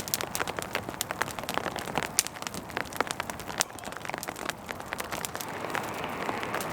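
Rain falling on a tarp shelter, with a small campfire of kindling crackling: many sharp ticks over a steady hiss that swells about five seconds in.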